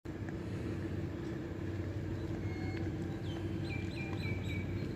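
Steady low rumble and hum of a train running. From about three seconds in, a bird chirps in short, quick repeated calls.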